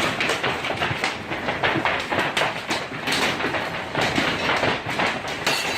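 A hailstorm pelting down: a dense, continuous clatter of hailstones striking hard surfaces.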